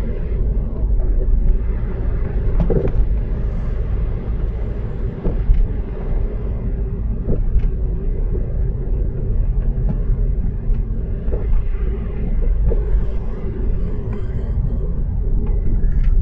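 Car driving on snowy city streets, heard from inside the cabin: a steady low rumble of road and engine noise with a constant hum and a few faint knocks.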